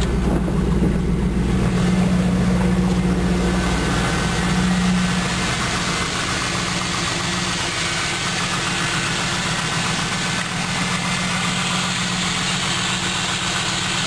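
A 1998 Pontiac Trans Am's LS1 5.7-litre V8 idles steadily. The low end drops off about five seconds in. With the clogged fuel filter just replaced, the fuel pump no longer buzzes over the engine.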